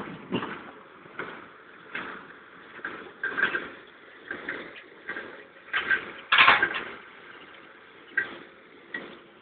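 Steel hay bale accumulator clanking and rattling as it is towed, with irregular knocks about once a second and the loudest clatter just after six seconds in.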